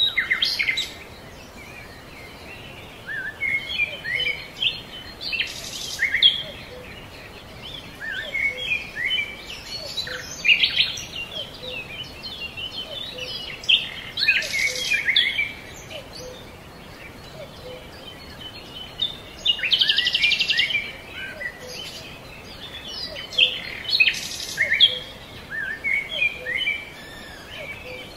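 Birds chirping and singing, in bursts of quick, high chirps every few seconds over a steady faint hiss.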